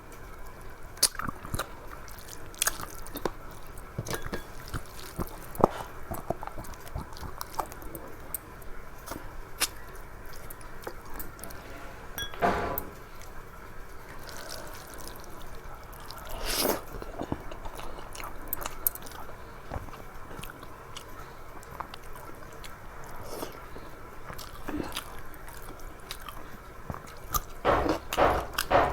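Close-miked eating sounds: a person chewing a meal of rice and curry, with frequent short wet clicks and smacks of the mouth, and a denser run of them near the end.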